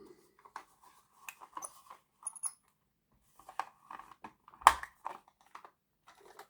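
Plastic clicks and light taps of a model locomotive's plastic body being handled and pushed down onto its chassis, with one louder click about two-thirds of the way through.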